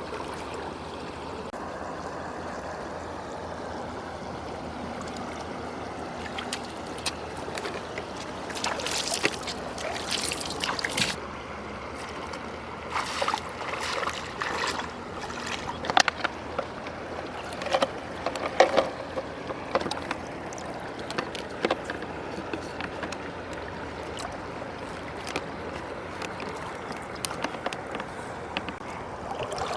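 Running river water, with irregular bursts of splashing and sloshing that start about a quarter of the way in; the loudest splashes come a little past the middle.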